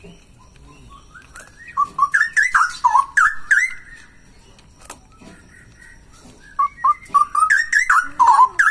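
Male straw-headed bulbul (cucak rowo) singing loudly in two bursts of rich, bubbling whistled phrases. The first runs about two seconds in and the second starts near the end, with a quiet pause between them.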